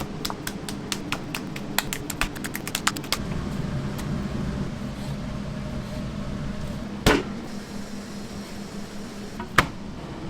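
Kitchen food preparation: a quick, irregular run of sharp taps for about three seconds, then two louder single knocks later on, over a steady hum.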